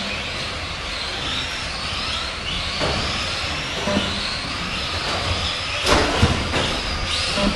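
Several Tamiya Euro Truck RC racing trucks' brushed electric motors whining, rising and falling in pitch as they speed up and slow down. A few sharp knocks cut through, the loudest about six seconds in.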